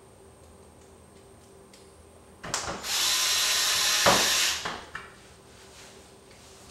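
Power drill driving a 1-inch drywall screw through a plastic Peg Lock board into a garage door, in one burst of about two seconds that ends abruptly.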